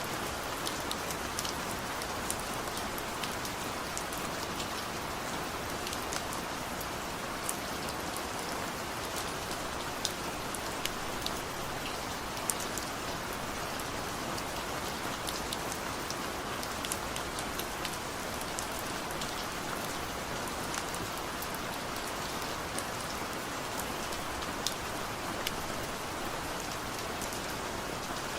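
Steady rain falling on a surface: an even hiss of rainfall with many individual sharp drop ticks scattered through it.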